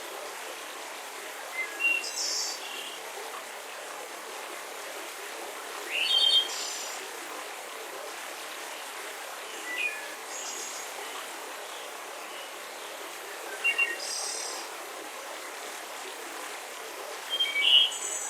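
Forest birds chirping in short calls about every four seconds over a steady hiss of soft breeze.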